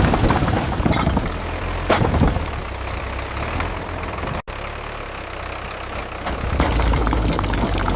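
Tractor engine running steadily at a low idle, with scattered knocks and clatter in the first couple of seconds, one sharp knock among them. The sound cuts out for an instant about halfway through.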